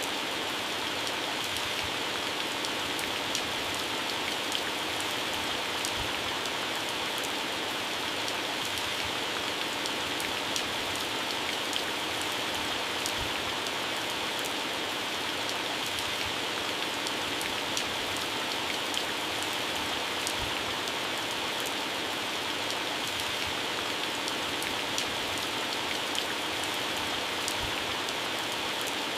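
Heavy rain falling steadily on garden plants and grass: an even hiss of rain with many close drops ticking on leaves.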